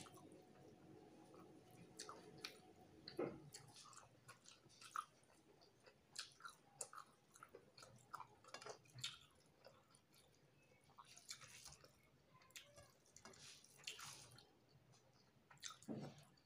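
Faint close-up chewing of a mouthful of rice and fish curry eaten by hand, with scattered soft clicks and smacks.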